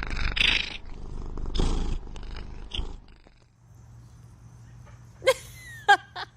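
Cat purring loudly and raspily close to the microphone for about three seconds, the purr fading out. Near the end come four short, high-pitched chirps, one sliding down in pitch.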